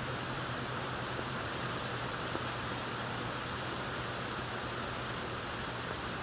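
Steady rain falling, an even hiss with a few faint drop ticks, over a low steady hum.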